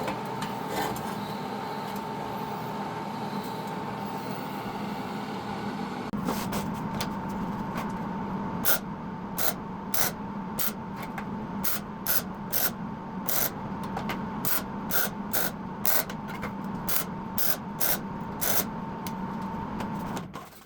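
Hammer striking a stainless steel exhaust tube, a string of sharp metallic blows about once or twice a second from about six seconds in, as the tip's opening is hammered out. A steady hum runs underneath throughout.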